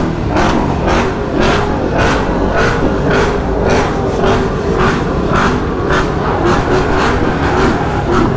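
Loud, dense engine and exhaust noise from muscle cars at a street takeover. A steady low rumble is overlaid by an even pulse about twice a second.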